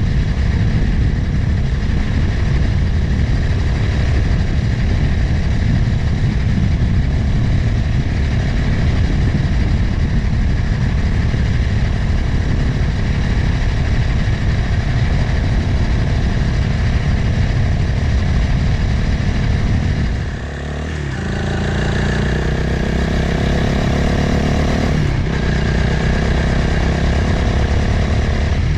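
Motorcycle engine running while riding, under a steady rush of wind noise on the microphone. About two-thirds of the way through, the wind drops for a moment and the engine note comes through clearly for a few seconds, then the wind rises again.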